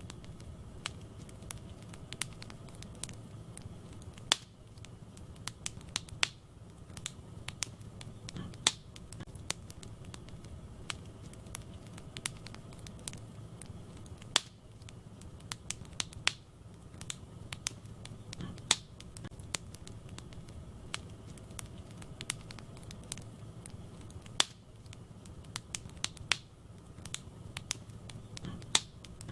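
Wood fire burning in a fireplace: a steady low rumble of flames with irregular sharp crackles and pops of burning logs, a louder pop every few seconds.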